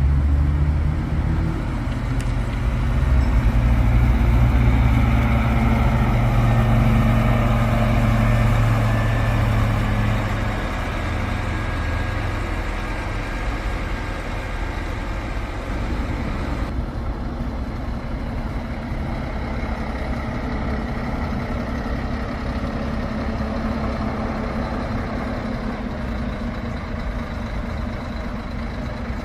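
Scania tour coach's diesel engine running, with a heavy low rumble that is strongest for the first ten seconds or so, then settles to a steadier, quieter run.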